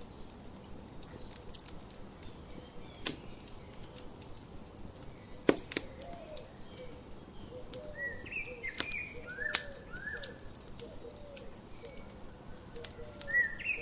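Wood fire crackling with scattered sharp pops, the loudest about five seconds in, under birdsong. From about halfway, birds call with short, low, repeated notes and with higher chirps that slide downward.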